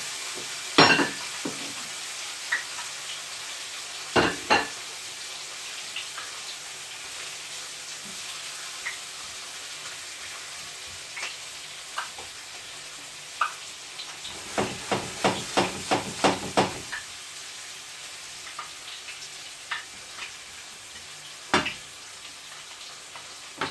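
Chicken frying in butter with onions, garlic and herbs, a steady sizzle in the pan. A utensil knocks against the pan now and then, with a quick run of taps about two-thirds of the way through.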